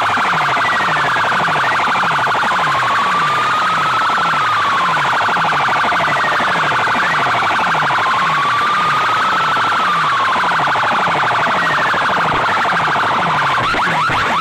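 Electronic DJ sound-check track: a siren-like tone slowly rising and falling over a dense, harsh buzzing layer, with a low bass sweep pulsing about one and a half times a second.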